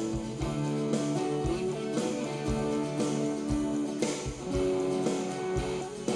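Multitrack band recording playing back: a strummed 12-string acoustic guitar over regular low kick-drum thumps, with the vocals muted.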